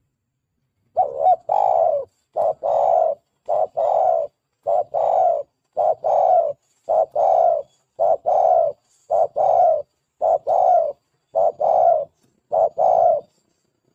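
Spotted dove cooing over and over, each phrase a short note followed by a longer coo, about once a second, eleven times.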